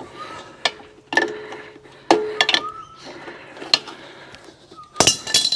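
Metal spanner clinking and knocking against the steel nuts and caps of a Harley's front fork, several sharp separate clinks with a short ring, the loudest cluster near the end.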